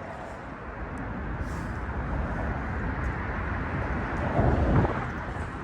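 Steady low rumble of bridge traffic, swelling louder for a moment about four and a half seconds in as a vehicle passes.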